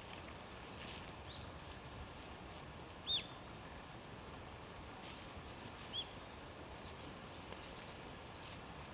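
A bird giving three short, single arched chirps a couple of seconds apart, the loudest about three seconds in, over faint steady background noise.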